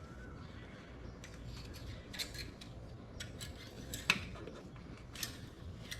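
Engine oil dipstick handled in its tube during an oil-level check: a few light metallic clicks and scrapes, the sharpest about four seconds in.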